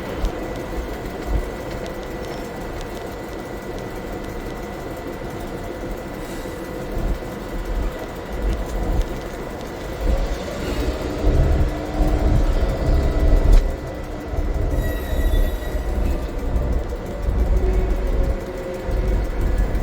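Former V/Line P-class diesel locomotive (P20) moving slowly at shunting speed: its diesel engine running with a low rumble that swells at times, wheels rolling over the yard track, and a brief high squeal about 15 seconds in.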